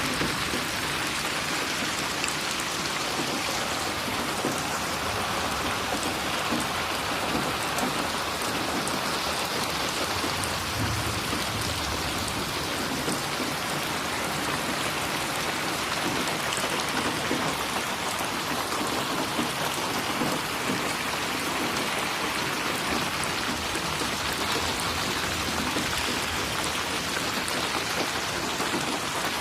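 Steady rain falling on a surface, an even hiss with the patter of individual drops splashing.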